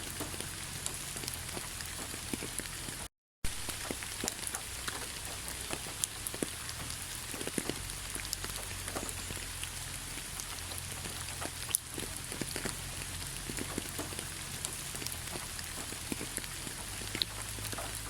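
Heavy rain falling: a steady hiss with many separate drops tapping close by. The sound cuts out completely for a fraction of a second about three seconds in, then resumes.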